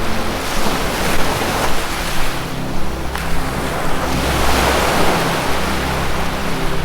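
Ocean surf washing in, one wave swelling to its loudest about two-thirds of the way through, over a low sustained musical drone.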